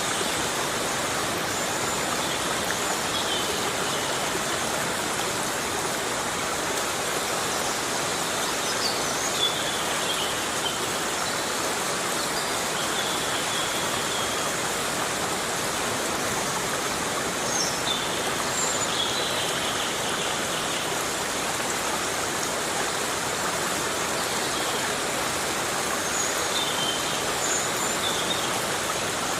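Heavy rain falling steadily in a rainforest, an even rushing hiss. A few short high-pitched calls rise briefly above it at scattered moments.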